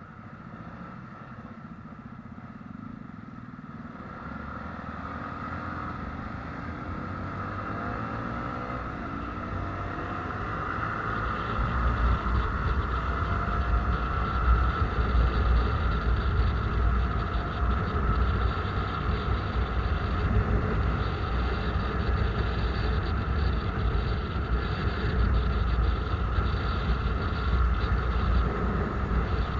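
A vehicle on the move, speeding up: the sound rises in pitch and grows louder over the first ten seconds or so, then runs steadily, with low wind rumble buffeting the microphone.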